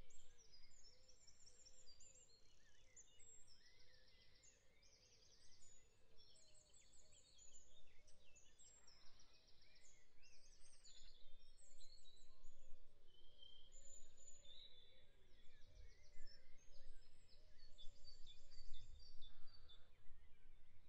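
Faint birdsong: short, high-pitched chirps and rapid trills repeating.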